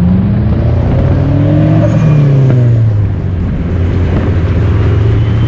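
Car engine running loudly, its pitch rising a little then easing off about two seconds in.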